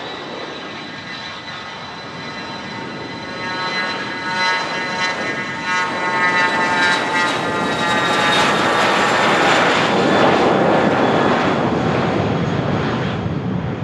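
Private jet's turbofan engines at takeoff power: a steady high whine of several tones, with a roar that builds from about four seconds in and is loudest around eight to eleven seconds as the jet accelerates past, easing near the end.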